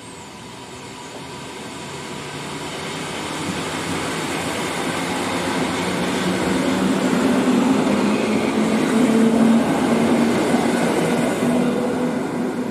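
EN57 electric multiple unit passing at speed, the rumble of wheels on rails building as it approaches, loudest about nine seconds in as the cars go by, then easing off.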